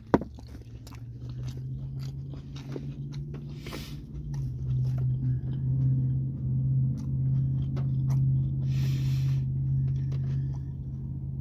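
A person chewing a mouthful of steak taco, with wet mouth clicks and crunches, and two short sniffs through a nose running from the hot sauce. A steady low hum runs underneath and grows louder about four seconds in.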